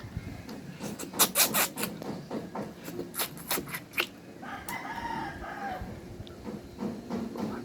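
Several sharp clicks and smacks in quick succession, then a rooster crowing once, about halfway through, for around a second and a half.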